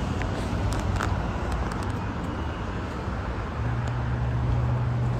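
Steady outdoor traffic rumble, with a low hum coming in about three and a half seconds in and a few faint ticks.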